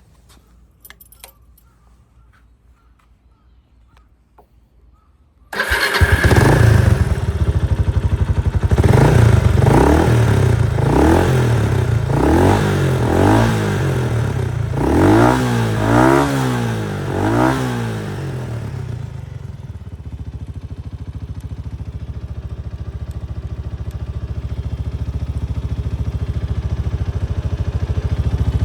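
Kawasaki Estrella RS single-cylinder four-stroke engine starting suddenly about five seconds in, after a few faint clicks. It is then revved in a string of quick blips, about one a second, and settles into a steady idle.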